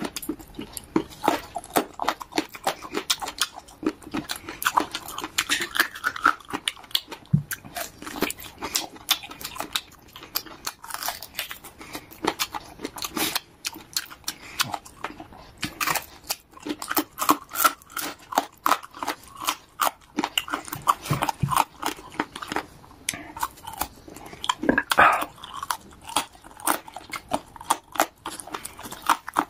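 Close-up chewing and gnawing on cartilage ribs: a dense run of crunches and mouth clicks as the cartilage is bitten off the bone and chewed.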